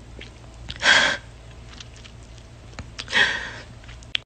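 A woman crying, with two loud sniffling breaths: one about a second in and another about three seconds in.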